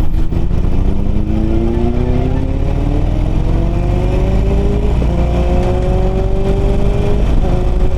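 Inline-four superbike with an aftermarket Akrapovic exhaust accelerating hard, its engine note climbing steadily. It shifts up about five seconds in and again near the end.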